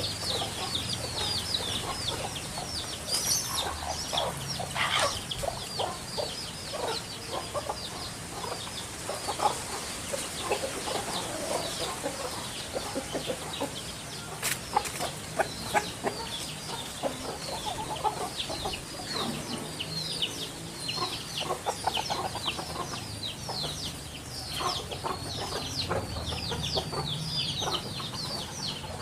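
Birds calling: a dense, continuous chatter of short high chirps, with scattered lower calls mixed in.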